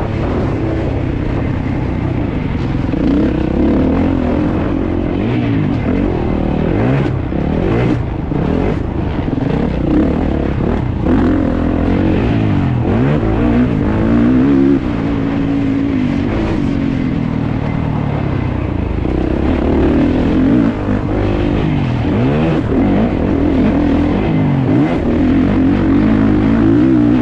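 Kawasaki KX450 four-stroke single-cylinder motocross engine, heard on board, revving hard and backing off over and over as the bike is ridden around the track, with a few knocks over the middle stretch.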